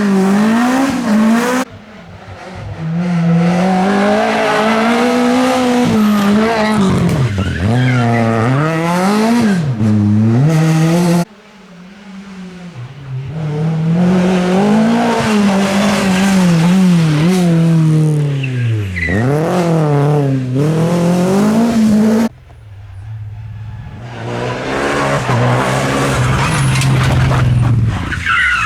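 Rally car engines at full throttle, the pitch climbing and dropping again and again through gear changes and lifts off the throttle. The sound breaks off suddenly three times, about 2, 11 and 22 seconds in, as a new passage starts.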